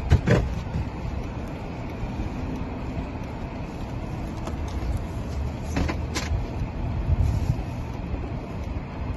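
Steady low rumble of a car engine idling, heard from inside the car, with a few brief knocks about a third of a second in and again around six seconds in.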